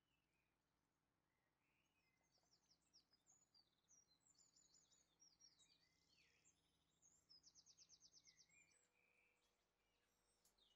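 Faint birdsong: scattered high chirps and whistles, with a quick trill of evenly repeated notes about seven seconds in.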